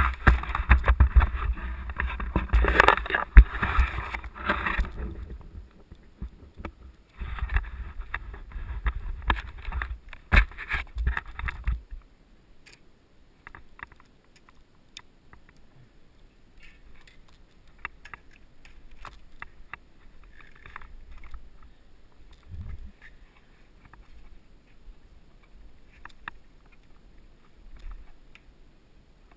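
Mountain bike rolling over a dirt trail, picked up by a helmet camera: rattling and rumbling for about the first five seconds and again from about seven to twelve seconds in, then much quieter with scattered light clicks.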